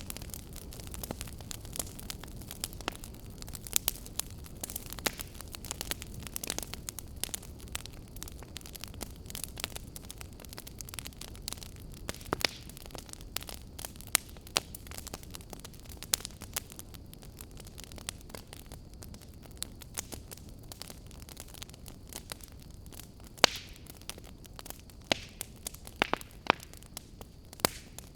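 Fire crackling: irregular sharp pops and snaps over a low, steady rumble, with a few louder pops near the end.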